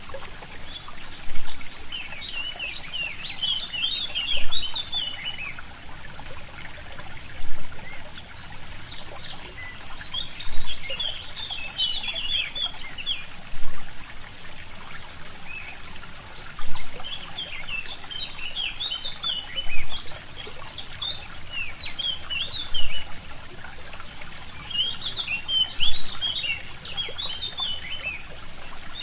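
Forest songbirds singing in recurring bursts of rapid, twittering high phrases over the steady trickle of a stream.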